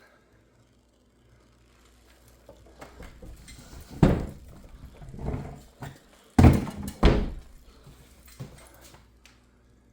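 Heavy thuds and scraping as a refrigerator door is handled and moved about, with three loud knocks a couple of seconds apart in the middle and smaller knocks near the end.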